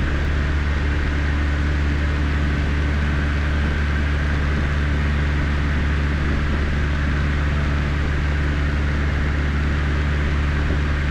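Cessna 152's four-cylinder Lycoming O-235 engine and propeller running steadily in flight, a constant drone with a low hum, heard from inside the cockpit.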